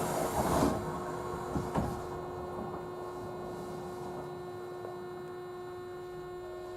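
JR Central 311 series electric train car standing at a station: a short rush of air at the start and a thump a little under two seconds in, as its sliding doors close, then a steady electrical hum from the standing car.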